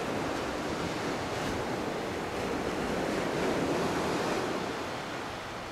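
Small ocean waves breaking gently on a beach, a steady wash of surf that swells and eases, with wind buffeting the microphone.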